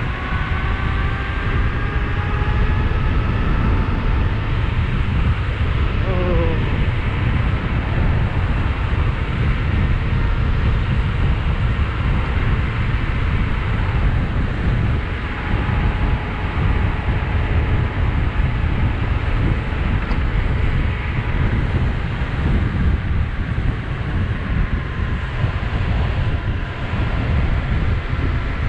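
Wind rushing over the microphone while riding a 72-volt electric bike at speed, with a faint electric-motor whine that rises slowly in pitch over the first few seconds.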